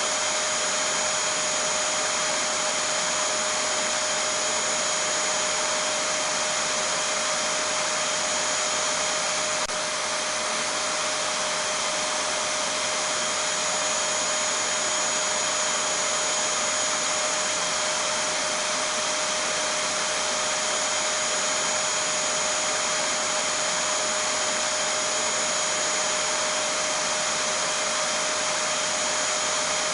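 Vacuum cleaner (hoover) running steadily: an unbroken rushing noise with a constant whine on top.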